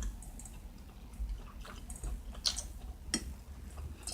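Close-miked eating: chewing and mouth sounds, with a few sharp, irregular clicks scattered through.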